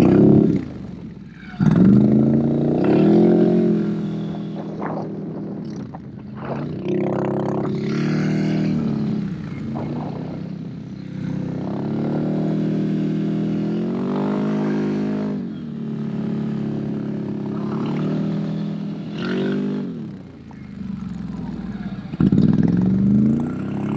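ATV engine running under load and revving up and down repeatedly, with sharp rev blips right at the start, about two seconds in, and again twice near the end.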